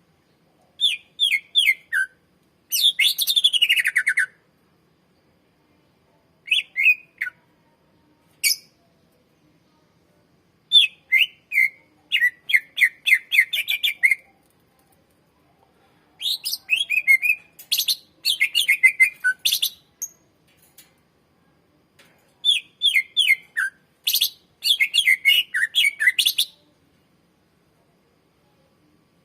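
Green leafbird (cucak ijo) singing a string of loud phrases of rapid, falling whistled notes. Each phrase lasts one to four seconds, and there are short silent pauses between them.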